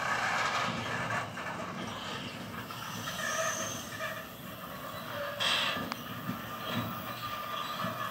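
Loaded stone hopper wagons of a freight train rolling slowly over old track: a steady rumble of wheels on rail with intermittent high wheel squeal, and a brief sharper screech about five and a half seconds in.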